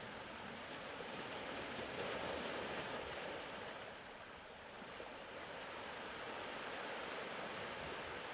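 Faint ocean-wave soundscape: a soft wash of surf that swells about two seconds in, ebbs around four seconds, and builds again.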